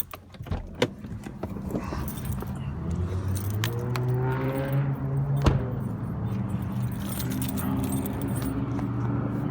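A few sharp clicks and a rattle like keys being handled, then a car engine running with a steady low hum whose pitch rises around the middle.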